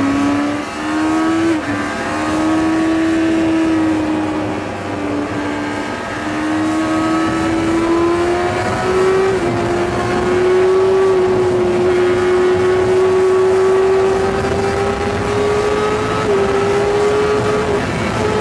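Yamaha R6's inline-four engine running hard, heard on-board as it laps a race track. Its note climbs slowly, with a few short dips along the way.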